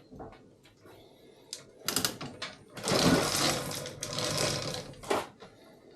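Rapid metallic rattling from tool work on a diesel cylinder head: two short bursts, then a longer stretch of about two seconds that ends abruptly.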